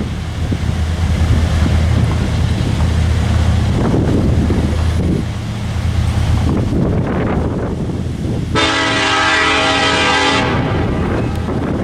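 Diesel freight locomotive running with a steady low rumble. About two-thirds of the way in, its multi-chime air horn sounds one blast of about two seconds.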